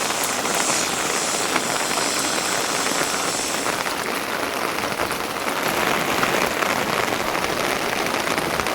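Steady rain falling, a dense, even patter.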